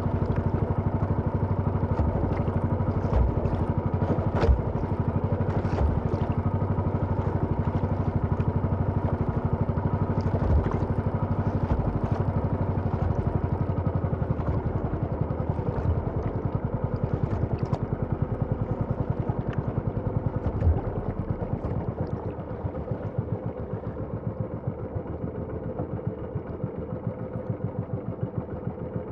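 A small engine running steadily at a constant speed, with a few short knocks over it; it eases slightly quieter about two-thirds of the way through.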